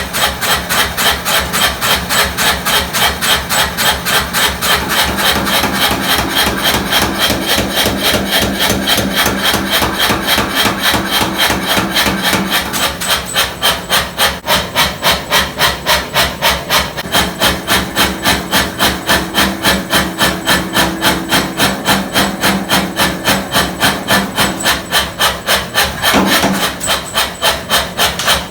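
Mechanical power hammer striking hot steel in a rapid, even rhythm of about four to five blows a second, over a steady motor hum.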